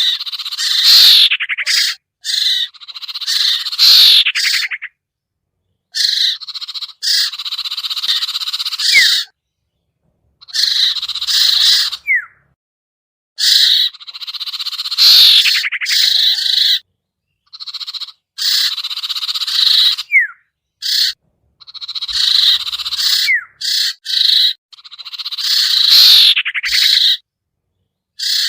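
Bird-lure recording of small songbird calls: bursts of harsh chattering and buzzy calls with short, sharp, slurred whistles, each burst a second or two long and broken by dead-silent gaps, repeating over and over as an edited loop.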